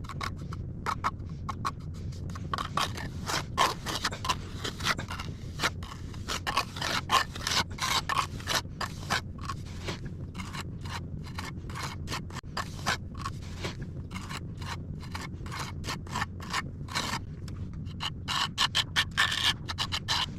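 A tool scraping through wet cement mortar in quick, uneven strokes, as in mixing or trowelling plaster.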